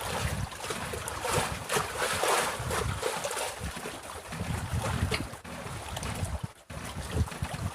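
Gusty wind rumbling on the microphone over choppy water lapping in big waves.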